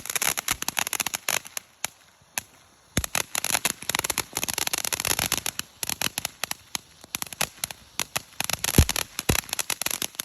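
TNT Mad Trolls fountain firework spraying, with dense crackling pops over its hiss. It goes almost quiet briefly about two seconds in, resumes, and burns out near the end.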